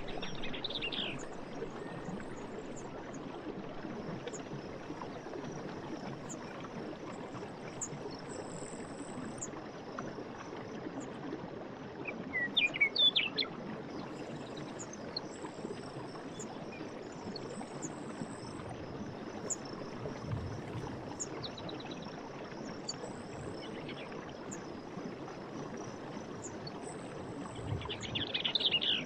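Steady rush of running stream water with birds chirping over it: a loud burst of chirps about halfway and further calls near the start and the end, with short high chirps recurring at intervals.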